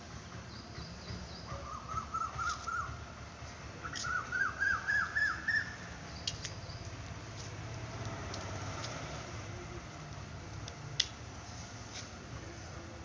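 A bird calling twice in quick runs of short notes, about five notes a second, each run climbing in pitch, the second louder. A single sharp tick near the end.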